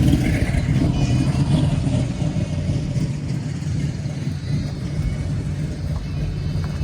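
A car engine rumbling at low revs, loudest at the start and then easing off a little.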